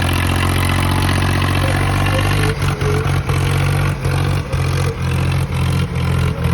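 Swaraj 855 tractor diesel engine running loud and steady. From about two and a half seconds in, its sound drops out briefly again and again.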